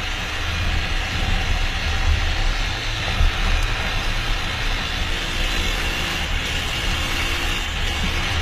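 Motorcycle engine running at idle, picked up close by a bike-mounted camera as a steady low rumble, with a short knock about three seconds in.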